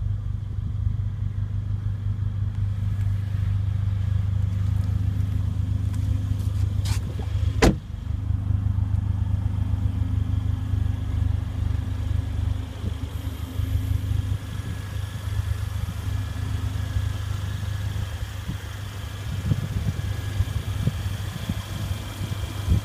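Steady low rumble of the car heard from inside the cabin of a Mercedes-AMG GLA 45, with one sharp click about seven and a half seconds in.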